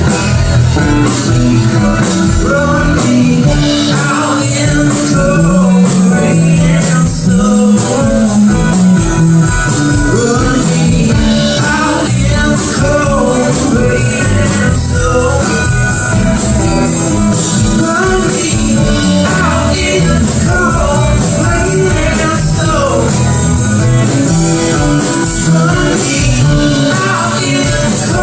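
Live rock band playing an instrumental passage: drum kit keeping a steady beat under bass and guitar, with bending lead lines on top.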